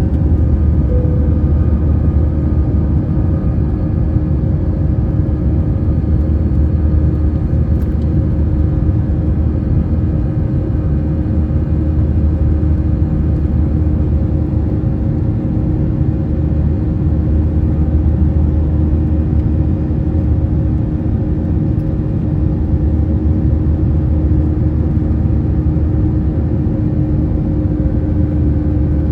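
Airbus A321-211 cabin noise: its CFM56 turbofan engines running at constant thrust, a steady deep rumble with a constant hum over it.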